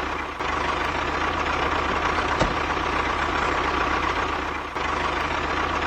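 A motor runs steadily with an even, idling-like hum. There is a single sharp click about two and a half seconds in.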